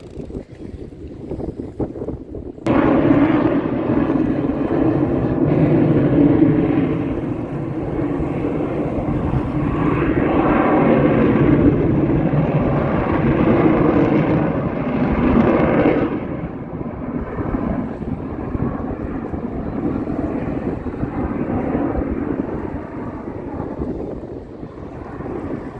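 Blue Angels jet aircraft passing over, a loud jet roar that comes in suddenly a few seconds in, sweeps in pitch as it goes by, and eases to a lower rumble after about sixteen seconds.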